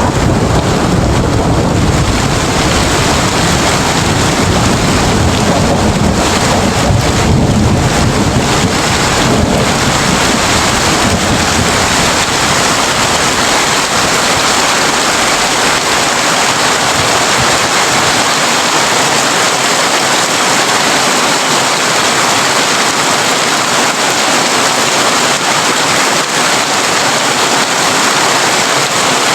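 Heavy rain drumming steadily on a tin roof. A low rumble of thunder runs under it for the first ten seconds or so, then fades away.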